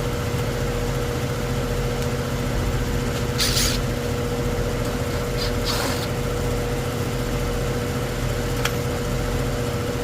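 Goodman outdoor unit's condenser fan motor running steadily with a constant hum while the compressor sits idle: only the fan is running, the compressor has not started. Two brief scraping noises a few seconds in and a single click near the end.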